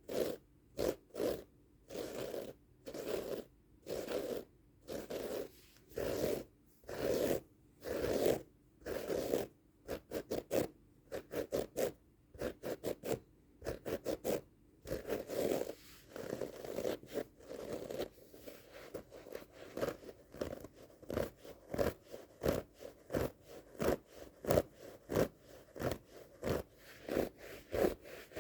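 Repeated scratching and rubbing strokes across the pile of a rug, each a short rasp. The strokes are slower and longer for the first half, then from about two-thirds of the way in they turn into quicker, shorter scratches, several a second.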